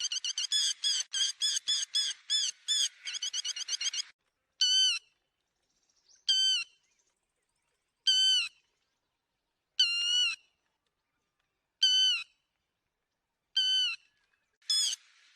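Lapwing ('te te mỏ vàng') calling: a fast run of sharp, repeated call notes, about four or five a second, breaks off after about four seconds. Single loud calls follow, spaced roughly every second and a half to two seconds, and a fast run starts again just before the end.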